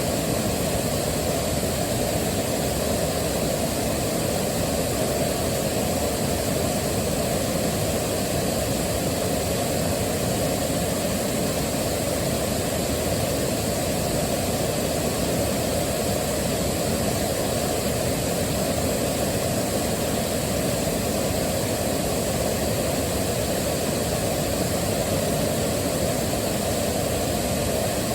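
Waterfall: a steady, unbroken rush of falling water, deep and full, with no change in level.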